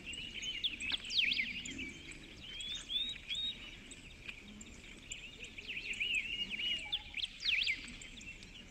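Small birds chirping: a busy, continuous run of quick high chirps and short rising and falling whistles.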